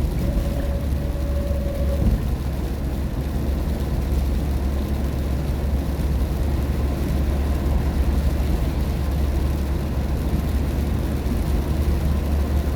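Steady car-cabin road noise while driving on a rain-wet expressway: a constant low rumble of tyres and engine, with the hiss of the wet road and rain on the car.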